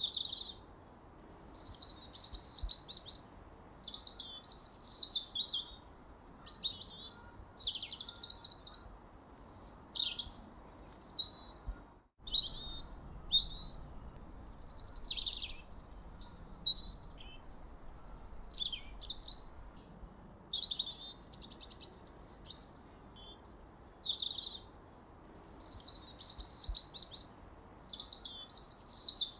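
Birds singing: a steady stream of high chirps and warbled phrases over a faint background hiss, broken by a momentary dropout about twelve seconds in.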